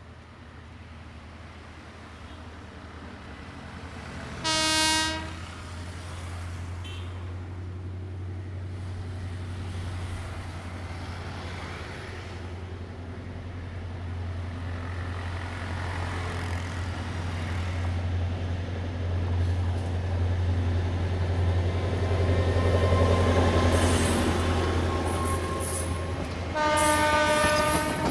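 Sri Lankan diesel train approaching, its engine drone growing steadily louder. It sounds its horn twice: a short blast about four seconds in and a longer one near the end.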